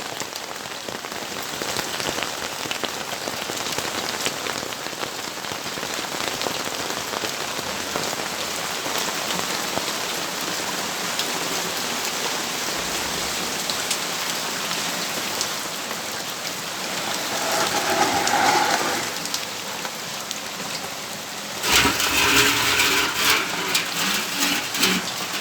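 Steady rain falling, a dense even hiss and patter of drops on surfaces. About two-thirds through, a louder sound with a pitched tone swells for about two seconds, and near the end a louder, crackling sound with pitched tones starts suddenly and lasts about three seconds.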